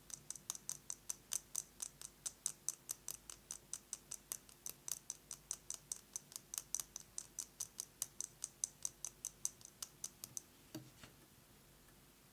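Fast fingernail tapping on a metal lipstick case: an even run of sharp clicks, about five or six a second. The tapping stops near the end, followed by one duller knock.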